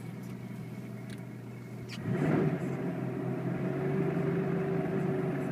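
2000 Kia Sportage engine running just after a cold start, with a bad misfire. It grows louder about two seconds in and then runs steadily.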